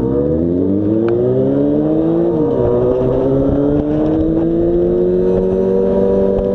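Yamaha FZ6 inline-four motorcycle engine accelerating. Its pitch rises, drops sharply at an upshift about two and a half seconds in, then climbs slowly again and holds steady.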